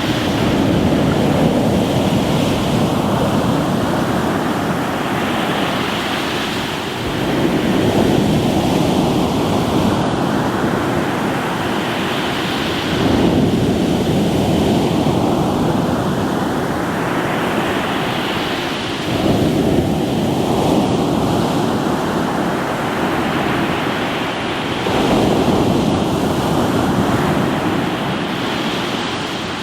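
Ocean waves breaking on a rocky shore, a fresh surge about every six seconds, with the wash of each wave running on into the next.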